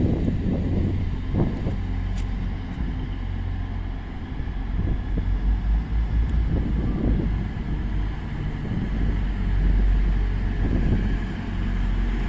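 A passenger train approaching along the line, a steady low rumble that swells and fades a little as it draws closer, with wind buffeting the microphone.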